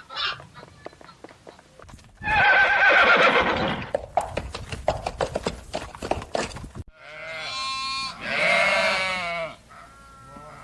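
Farm animals calling in two separate clips: a loud, harsh call about two seconds in, followed by scattered clicks, then after a cut a wavering, bleat-like call.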